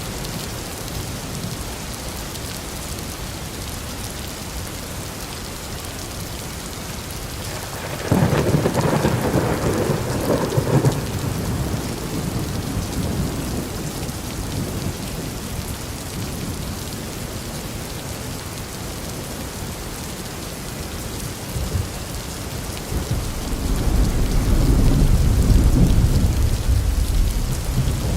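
Steady rain with two peals of thunder: a sudden clap about a third of the way in that rumbles for a few seconds, and a deep rolling rumble that builds near the end.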